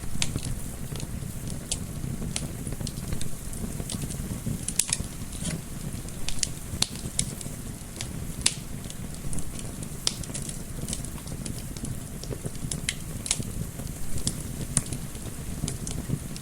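Wood fire crackling and popping with sharp, irregular snaps over a steady low rumble of flame, mixed with a soft wind.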